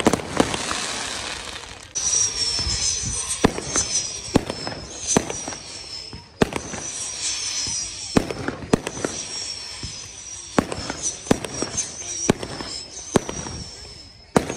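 Fireworks going off: a string of sharp bangs at uneven intervals throughout, with high-pitched whistles that slide slightly downward, repeated over and over from about two seconds in.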